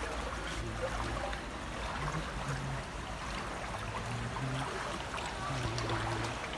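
Floodwater sloshing and trickling, a steady wash of water noise with small scattered splashes.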